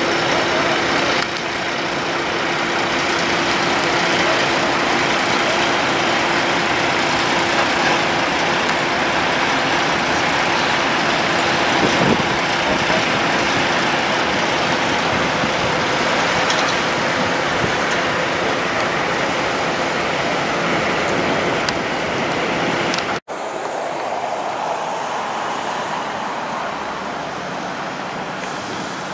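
Steady road and vehicle noise from heavy trucks on the move, with a faint steady engine tone. About 23 seconds in the sound cuts out for an instant, then resumes a little quieter.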